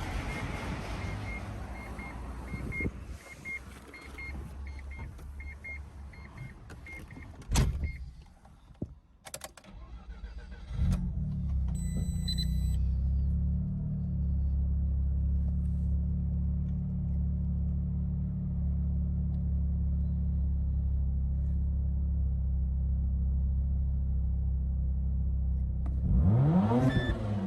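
Mazda RX-7 FD's 13B twin-rotor rotary engine, fitted with a TD06 turbo and a Dolphin muffler. It starts about eleven seconds in and idles steadily, then is blipped up and back down near the end. Before it starts there is a beeping about twice a second, then a thud and some clicks.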